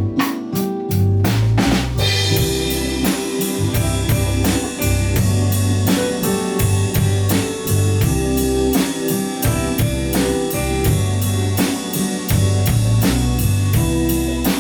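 Pop-jazz ensemble playing live: a drum kit keeps a steady beat under bass and keyboard chords, and the sound fills out about two seconds in.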